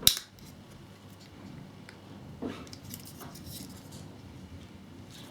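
Small plastic scale-model parts being handled and fitted by hand: one sharp click at the start, then faint rustling and a couple of soft knocks.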